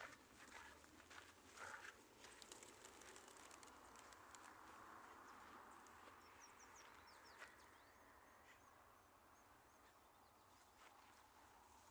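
Faint outdoor ambience with small, high bird chirps from about six seconds in, over a soft hiss that swells and fades; a few light clicks near the start.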